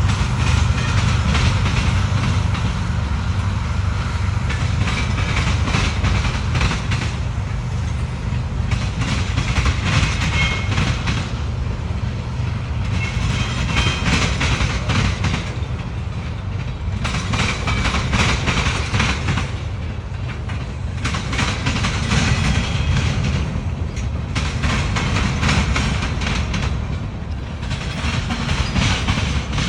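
Freight cars of a long CSX freight train rolling slowly past. A steady low rumble runs throughout, with higher rattling noise from the wheels and cars swelling and fading every few seconds.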